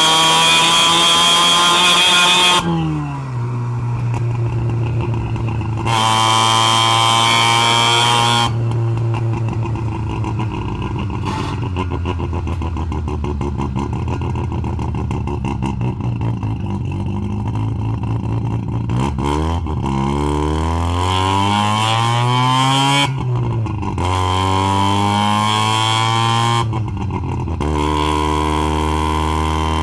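Half-bridgeport-ported Mazda 12A twin-rotor rotary engine running and being revved. Its pitch climbs and drops sharply several times: high at the start, falling about two and a half seconds in, rising again around six seconds, swinging up and down in the middle, and settling at a higher steady pitch near the end.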